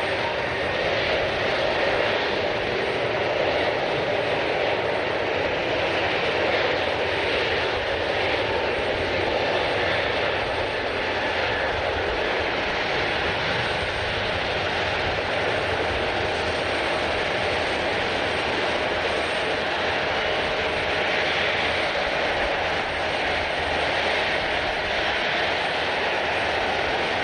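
Airliner jet engines running: a steady, even noise with faint steady whining tones, holding level throughout without rising or falling.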